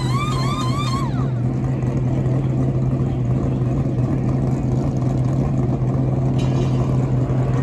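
Steady drone of race-truck engines running on the track, with a short high warbling sound in the first second.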